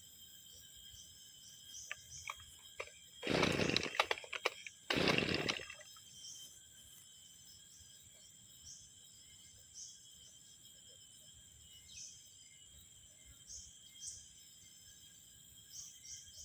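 Small two-stroke brushcutter engine being pull-started: two short rasping bursts about a second each, a second apart, that do not keep running. This fits an engine that is hard to start after six months unused.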